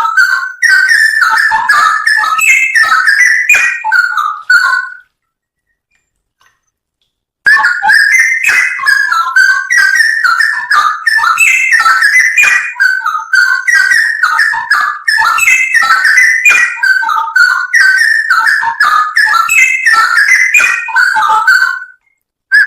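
Straw-headed bulbul (cucak rowo) singing loud, rich, fast bubbling whistled phrases with sharp-edged notes, a masteran song recording. The song breaks off into complete silence about five seconds in, resumes two and a half seconds later, and stops briefly again near the end.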